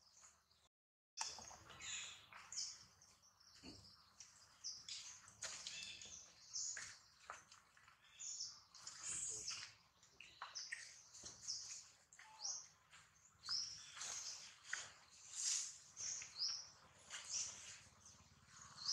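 Birds chirping: many short, high chirps one after another, with a brief cut to silence about a second in.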